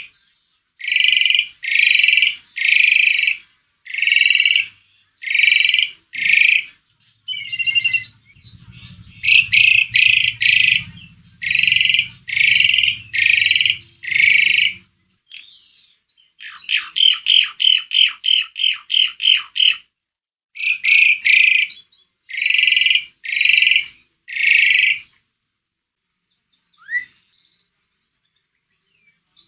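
Asian pied starling (jalak suren) singing in full voice: a long run of loud, harsh calls about a second apart. Partway through comes a quick rattling series of short notes, and near the end a pause broken by one short rising whistle.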